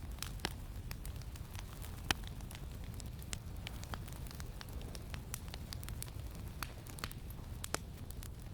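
Campfire crackling: irregular sharp pops and snaps, a few louder than the rest, over a low steady rumble.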